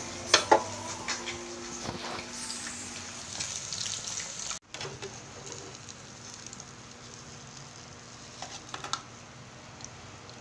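Food frying in a pan with a steady sizzle and a few sharp clinks near the start. About halfway there is a sudden cut, after which the sizzle is quieter.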